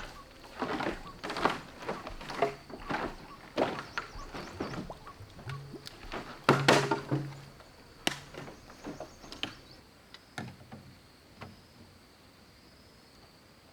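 Tool strikes on bamboo: an irregular run of sharp chopping blows, several a second for about the first ten seconds, then a few scattered knocks before it tails off.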